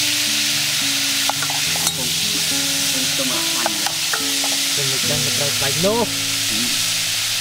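Food sizzling and frying in an aluminium pot over a wood fire, as a ladle stirs it and knocks against the pot a few times. Soft background music with low held notes plays underneath.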